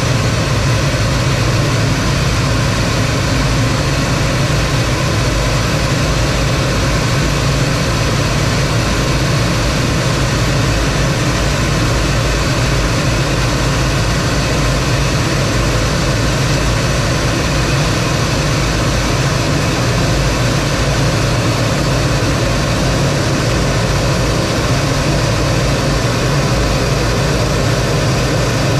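Steady, loud cockpit noise of a T-33 jet trainer: the jet engine and rushing air, with a deep hum underneath and no change in pitch or level.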